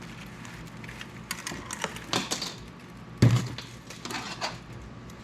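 Pieces of scrap copper clinking and clattering as they are packed into a crucible, in irregular small knocks, with one louder knock about three seconds in.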